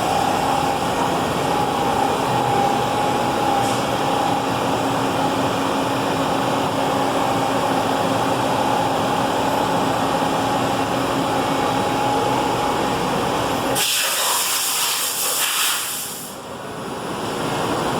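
Bridgeport Romi EZ Path SD CNC lathe running a roughing cycle under constant surface speed: a steady machine hum with a held whine. About fourteen seconds in, a loud hiss sounds for two to three seconds while the low hum drops away.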